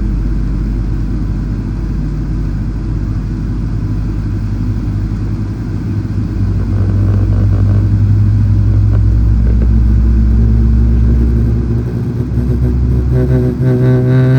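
Boeing 777-300ER airliner making a low, steady rumble and hum, growing a little louder about halfway through, with a set of higher whining tones coming in near the end.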